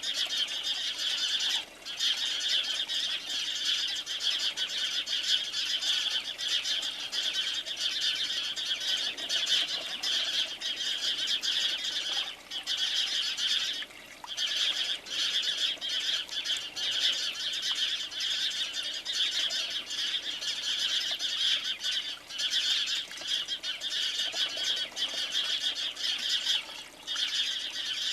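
A flock of sparrows chirping continuously in a dense chatter, with a few short lulls.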